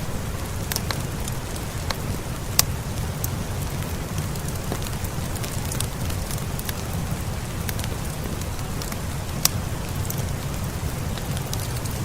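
Steady rain mixed with a crackling fireplace fire: a constant hiss with a low rumble underneath, and scattered sharp pops, two louder ones about two and a half seconds in and near the end.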